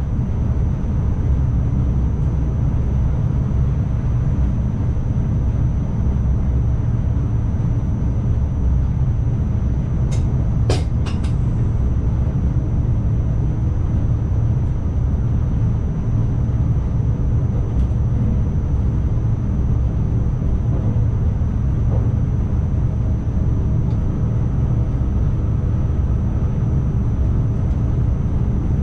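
NS ICMm electric multiple unit running along the line, heard in the driver's cab: a steady low rumble of motors and wheels on rail under a faint steady high whine, with a short cluster of sharp clicks about ten seconds in.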